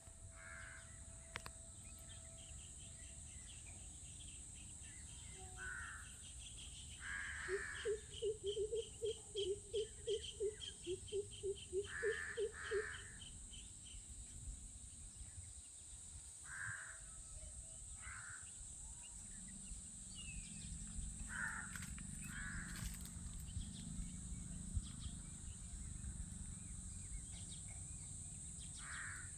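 Crow cawing, short calls mostly in pairs, repeated every few seconds. In the first half a loud, rapid run of repeated low notes, about three a second for some five seconds, stands out above the caws. A steady high hiss sits under it all.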